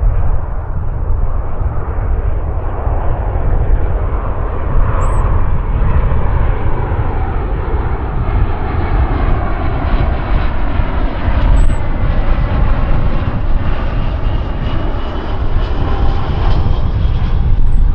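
Jet aircraft engines passing close by: a steady roar with a deep rumble and whining engine tones that slide in pitch, the higher whine rising and growing stronger in the second half.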